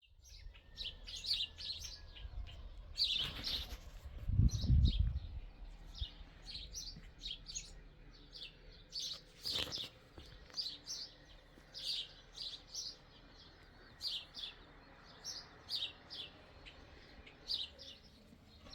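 Small birds chirping: short, high chirps repeated about once or twice a second. A brief low rumble comes about four seconds in.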